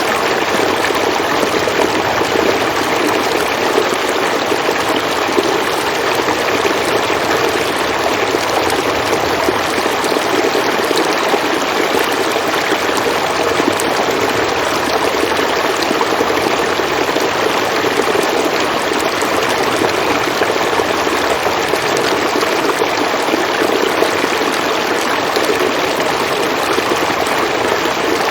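River water flowing steadily, a continuous even rushing with no breaks.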